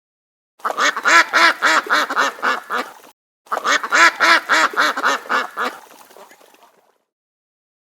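Duck quacking: two runs of about ten quick quacks each, about four a second, the second run trailing off near the end.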